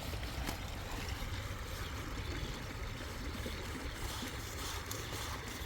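Water running steadily at a spring, with a low rumble underneath.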